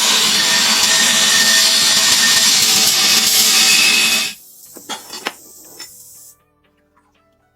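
A power tool working metal, a loud steady hissing grind, stops suddenly about four seconds in. A few light metallic clicks follow, then only faint soft music.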